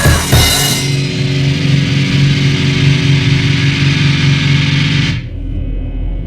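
Loud music: a final struck chord, most likely an electric guitar, held and ringing out at one steady pitch. About five seconds in its upper range dies away, leaving a low hum.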